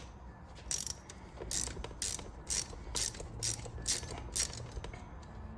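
Sharp metallic clicks, about eight of them roughly half a second apart, as a valve spring compressor is tightened down on a valve spring of a 3.8 V6 cylinder head.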